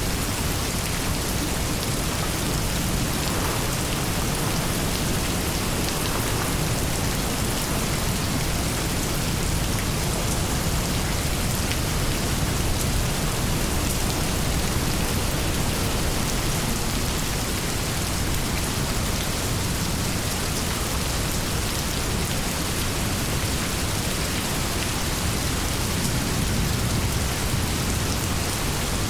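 Steady heavy rain falling, an even hiss of raindrops with a low rumbling undertone.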